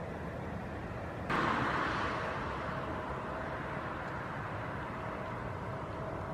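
Boeing 747 cargo jet's engines heard as a steady rumble. About a second in, a louder jet hiss starts abruptly and then fades away.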